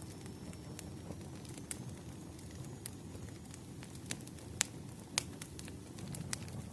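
Wood fire burning, with a steady low rumble and irregular sharp crackles and pops, two louder pops about four and a half and five seconds in.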